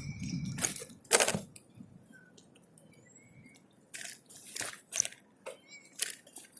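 Handling noise on the microphone: a low rumble cuts out in the first second, then a loud knock, and a few seconds later a run of sharp clicks and rustles.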